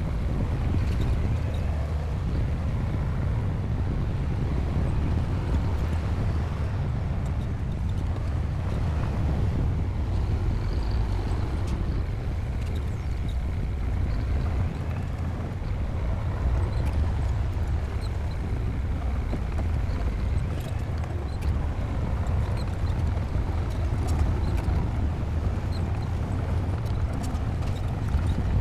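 Bulldozer's diesel engine running steadily at work, a continuous low rumble with faint scattered clicks and clanks over it.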